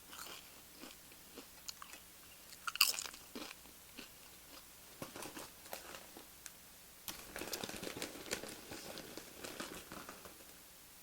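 Tortilla chips being bitten and chewed: a loud crunch about three seconds in, scattered smaller crunches, then a longer stretch of chewing near the end.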